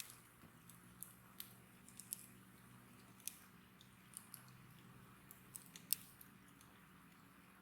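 Wood bonfire crackling: irregular sharp snaps and pops, the loudest about six seconds in, over a faint steady hiss.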